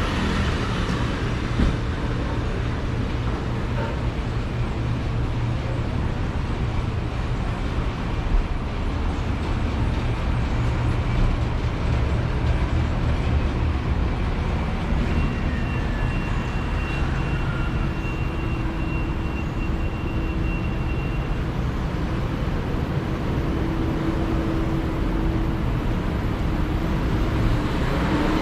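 Steady city street traffic rumble from passing vehicles.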